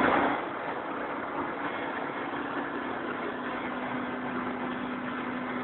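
Mil Mi-17V5 helicopter running: a steady engine and rotor drone with a constant low hum, unchanging throughout.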